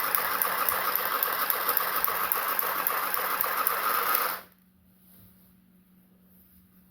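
USB-powered electric handheld sewing machine running steadily at a fast stitch rate as it sews through two layers of curtain fabric, then cutting off suddenly about four seconds in.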